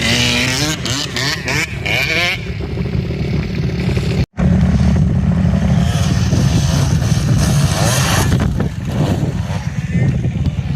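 Small motorbike engine revving up and down several times, then held at steady high revs, with a split-second dropout in the sound about four seconds in.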